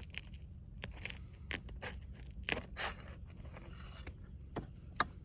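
Asphalt shingle tabs being pried and broken loose from their seal strips: an irregular run of sharp crackles, scrapes and snaps, loudest about halfway through and again near the end. The shingle mat tears away with the sealant, so the broken-loose shingle will not reseal properly.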